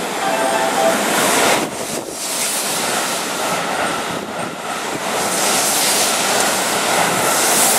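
Keihan 3000-series electric train running past along the platform close by: a steady rushing of wheels on rail and moving air.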